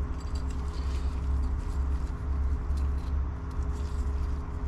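Steady low hum of the workshop background, with faint light clicks and ticks of small metal parts handled while piston rings are fitted onto a piston.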